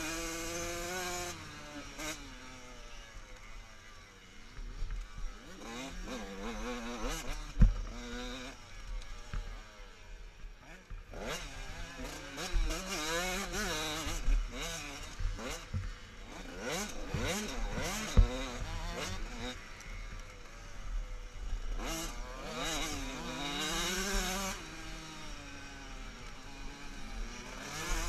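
Motocross dirt bikes racing past one after another, engines revving up and dropping back as they shift and pass, the pitch rising and falling with each bike. Two sharp low thumps stand out, one about a third of the way in and one about two thirds in.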